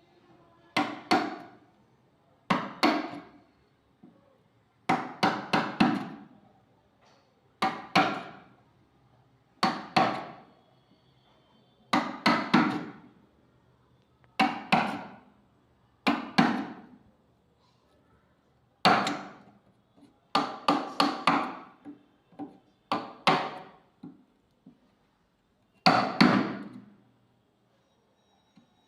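A hammer striking on wood: a single blow or a quick run of two to four blows about every two seconds, each with a short ring.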